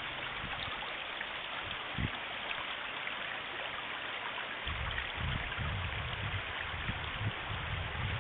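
Floodwater rushing in a steady, even stream. A low, uneven rumble joins in about halfway through.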